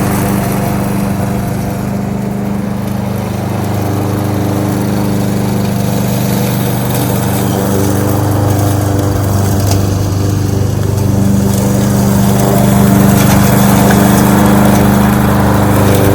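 Kohler XT-675 single-cylinder engine on a walk-behind lawnmower running steadily, with its loudness easing a little a few seconds in and rising again later.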